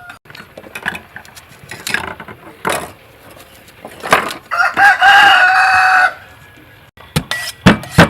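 A rooster crowing once, its long, steady note starting about four seconds in and lasting about two seconds. Sharp knocks and clicks come before and after it.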